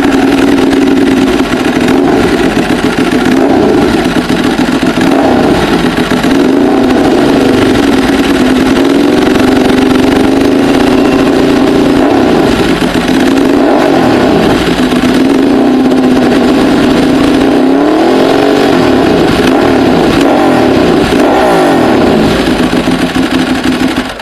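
Motorcycle-type engine running loud and close, being revved up and down over and over.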